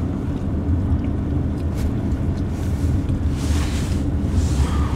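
Steady low rumble of a car's engine and tyres heard inside the cabin while driving on a snowy road, with a brief swell of hiss between about three and a half and five seconds in.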